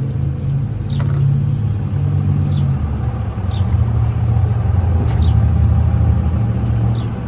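Low, steady rumble of a motor vehicle engine running nearby, swelling toward the middle. There is a sharp click about a second in and a few faint, short high chirps.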